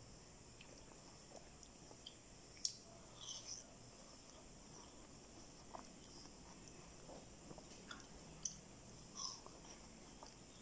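Faint chewing of watermelon: a few soft, wet mouth clicks and smacks scattered over a quiet background.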